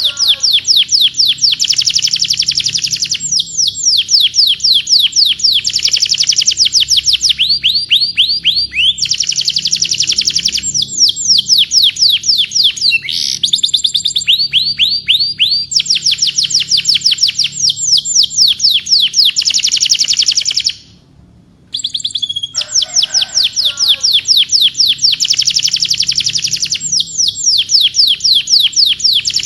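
Domestic canary singing: long rolls of rapid, evenly repeated high notes, each falling in pitch, switching to a new roll every few seconds. The song breaks off briefly about two-thirds of the way through.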